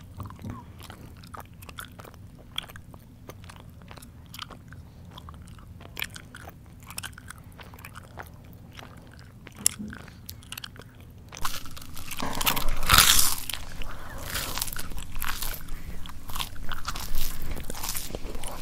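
Close-miked mouth chewing. It starts as soft, scattered chewing clicks, then about eleven seconds in turns much louder into dense crunching as something crisp is bitten and chewed.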